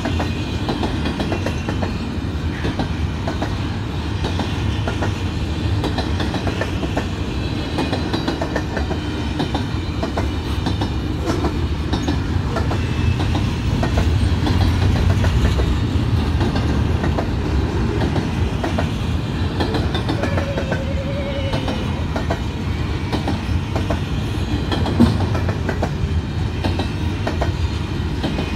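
Intermodal freight train's container cars rolling steadily past, a continuous low rumble with the wheels clicking over the rail joints.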